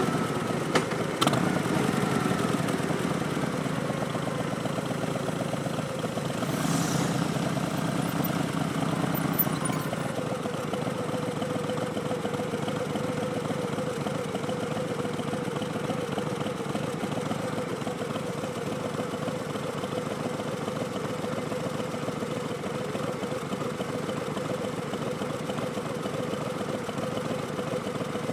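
2019 Harley-Davidson Street Bob's Milwaukee-Eight V-twin, fitted with Vance & Hines Twin Slash slip-on exhausts, running unevenly at first and then settling into a steady idle about ten seconds in.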